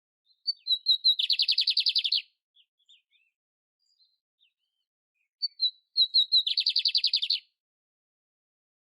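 Canary (canário império) singing: two matching phrases, each a few short high notes leading into a rapid trill lasting about a second, the second phrase starting about five seconds after the first.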